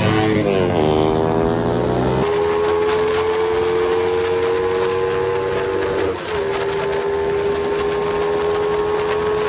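Scooter engine and drivetrain running at steady high revs while cruising: a steady whining note whose pitch falls about a second in, then holds. It dips briefly about six seconds in.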